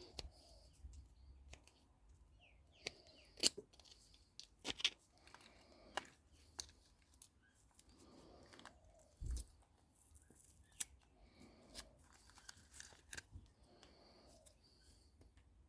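Faint, irregular snips and sharp clicks from hand work on a microwave oven transformer's copper windings, with a duller thud about nine seconds in.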